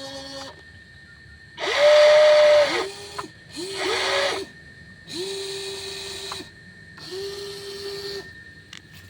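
The small electric motors and gearing of a WLtoys 16800 RC excavator whirring in four short runs of about a second each. Each run spins up and winds down, and the first is the loudest.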